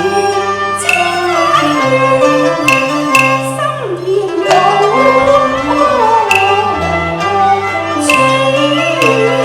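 Traditional Cantonese opera ensemble music: a bowed string instrument carries a sliding melody over steady, held bass notes.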